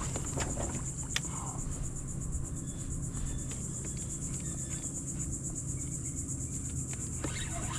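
Insects trilling steadily, a high continuous buzz, with a faint click about a second in.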